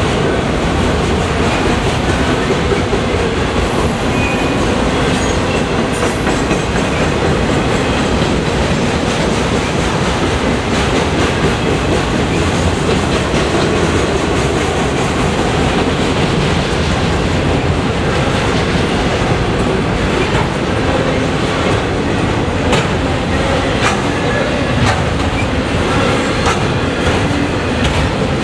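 Freight train cars rolling past close by, with a steady loud rumble of steel wheels on rail, clickety-clack over the rail joints and a faint high wheel squeal in the first few seconds.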